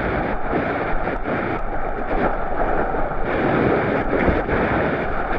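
Whitewater river rushing through class III rapids, with irregular splashes of water.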